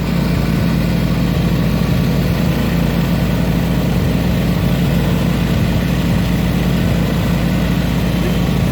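Riding lawnmower engine running steadily at an even, unchanging speed.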